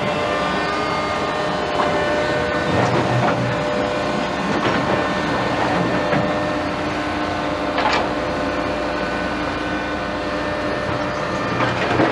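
Heavy tracked excavator's diesel engine running steadily while it works, with scattered sharp metallic clanks, typical of steel and concrete demolition debris being handled.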